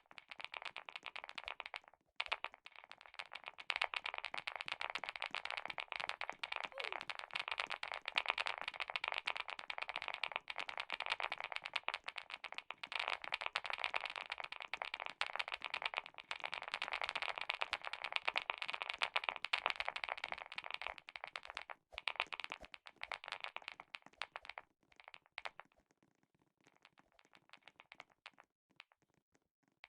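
Clicky keyboard typed rapidly: a dense stream of key clicks, broken by short pauses about two seconds in and again around twenty-two seconds, thinning to scattered keystrokes near the end.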